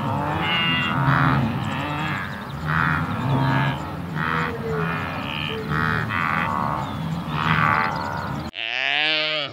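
Blue wildebeest grunting: short nasal, croaking calls from several animals, overlapping in quick succession. Near the end a single louder, longer call with a bending pitch.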